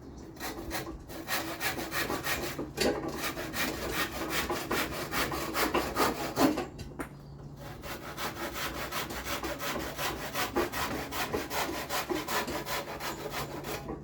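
Hand saw cutting through wood in steady back-and-forth strokes, trimming off the overhanging ends of the beehive roof pieces. Two bouts of sawing, with a short pause about seven seconds in.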